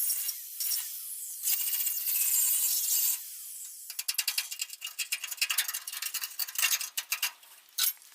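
Abrasive scrubbing of rusty steel bodywork: a steady scraping for about three seconds, then after a short pause a run of quick, irregular scrapes and clicks that thin out near the end.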